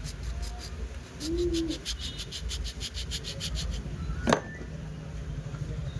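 Rapid, even scraping strokes, about five a second, stopping about four seconds in, followed by a single sharp click. A short low hoot sounds a little over a second in.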